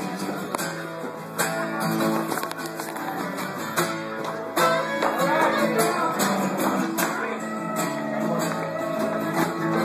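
Acoustic string band playing with strummed guitar, held chords over a steady rhythmic beat.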